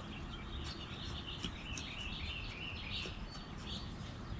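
Small birds chirping and twittering repeatedly in short, high notes, over a low steady outdoor rumble.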